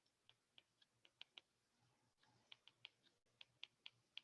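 Faint, irregular little clicks and taps of writing strokes, about three or four a second, with a pause of about a second in the middle.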